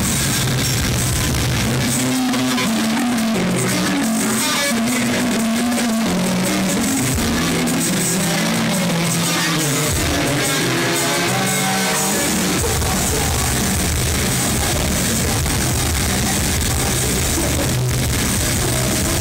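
Heavy metal band playing live with distorted guitars and drums, loud and evenly compressed in an audience recording. About two seconds in, the heavy low end drops away for roughly ten seconds, leaving a higher melodic part, then the full band comes back in.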